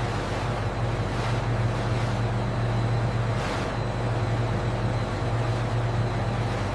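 Steady factory machinery hum: a constant low drone under an even mechanical noise.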